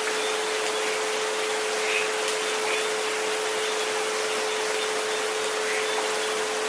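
Steady rain hiss with a continuous pure 432 Hz tone held underneath it.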